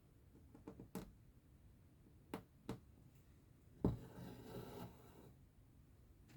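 Cross-stitch needle, thread and fabric being handled: a few light clicks and taps, then a louder knock about four seconds in followed by a second of rustling as thread is drawn through the cloth.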